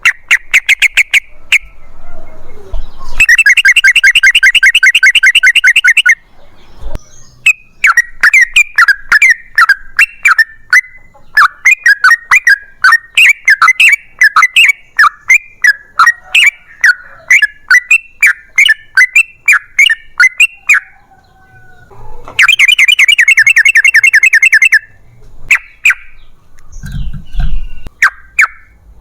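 Yellow-vented bulbul (trucukan) singing its long rapid-fire song. Twice it gives a fast buzzy trill lasting about three seconds. Between the trills comes a long run of quick bubbly chirps, about three a second.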